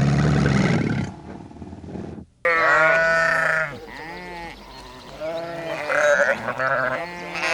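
A low, drawn-out animal call for about two seconds. It gives way suddenly to sheep bleating again and again, several voices overlapping.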